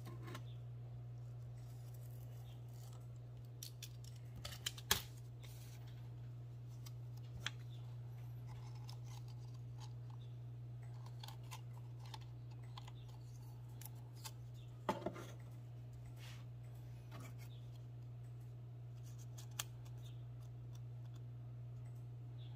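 Quiet paper-craft handling sounds: kraft card being cut and moved about on a cutting mat, with scattered small clicks and rustles. A few sharper clicks come about five seconds in and again about fifteen seconds in, over a steady low hum.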